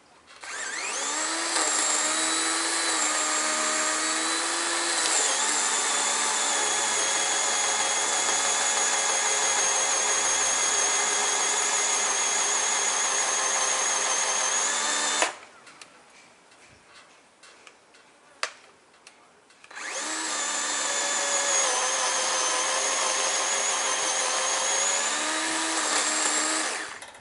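Chainsaw cutting into a black walnut trunk, running flat out in two long runs: about fifteen seconds, a pause of about four seconds, then about seven seconds more. Its steady whine dips slightly in pitch now and then as the chain bites.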